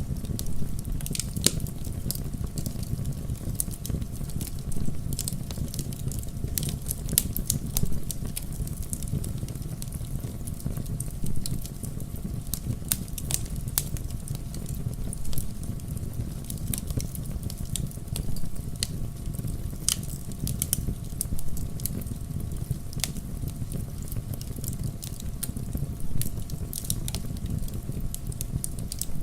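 Wood fire in a fireplace crackling, with frequent sharp pops and snaps over a low steady rumble.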